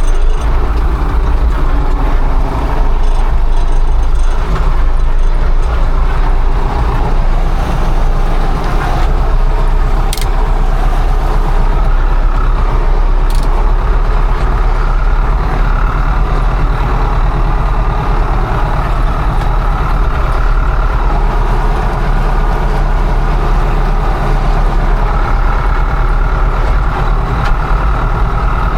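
Combine harvester engine running steadily and loudly, with two brief clicks about ten and thirteen seconds in.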